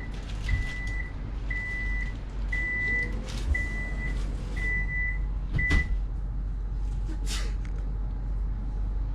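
Electric train's door-closing warning: a high beep repeating about once a second, six times, cut off by a thump as the sliding doors shut, with the train's steady low hum beneath.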